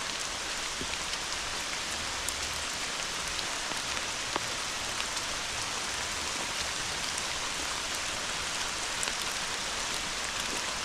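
Steady hard rain falling on the ground and foliage, an even hiss with scattered drop ticks.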